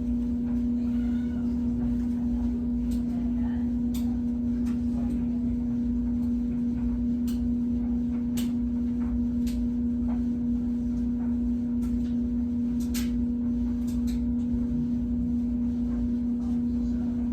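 A steady, unchanging hum with a fainter overtone above it, over a low rumble, with a few faint scattered clicks.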